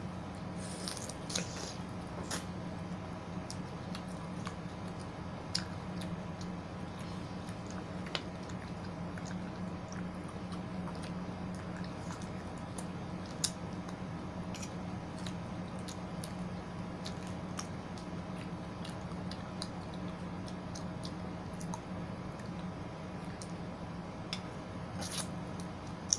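Close-up wet chewing and biting of juicy yellow watermelon and pineapple, with scattered short clicks, over a steady low hum.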